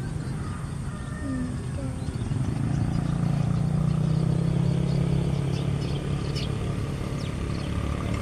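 Low engine rumble of a passing vehicle, swelling about three seconds in and easing back, with faint short high chirps of small birds over it.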